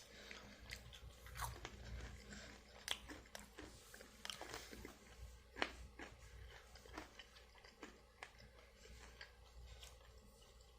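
A person biting into and chewing a crispy buffalo chicken pizza roll, with faint, irregular crunches.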